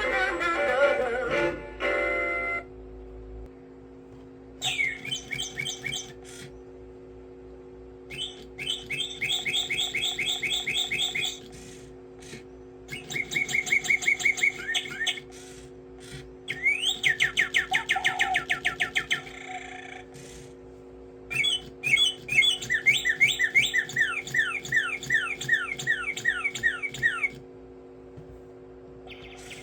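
A music track ends about two seconds in. Then a toy singing bird whistles in bursts of rapid falling chirps, each burst lasting a few seconds with short pauses between, over a steady low hum.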